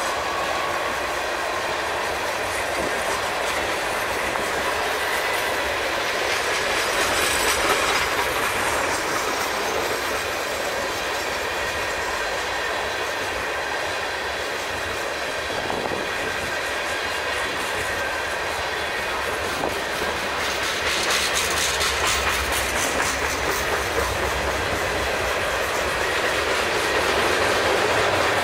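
Freight train tank cars rolling past: a steady rumble of steel wheels on rail, with regular clicks as the wheels pass over rail joints.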